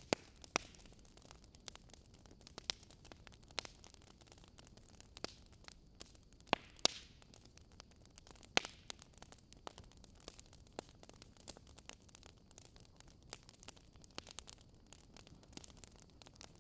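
Wood fire in a fireplace crackling: irregular sharp pops and snaps over a faint steady hiss, a few of them much louder than the rest.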